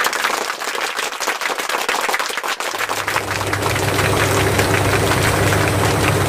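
Heavy rain pouring down, a dense crackling patter of drops. A steady low hum comes in about three seconds in and holds under the rain.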